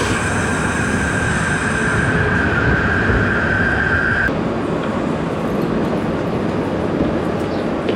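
Renfe passenger train running, a steady rumble with a high whine that cuts off suddenly about four seconds in.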